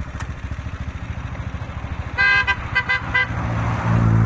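Motorcycle engine idling with a steady pulse while a horn sounds about two seconds in: one toot, then three short beeps. The engine grows louder near the end.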